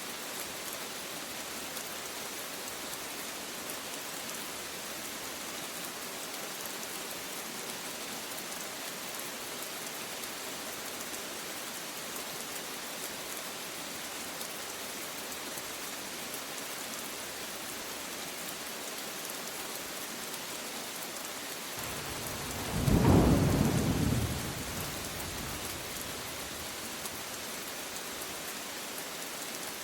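Steady rain hiss, with one short clap of thunder rumbling about 22 seconds in, rising and fading over about three seconds.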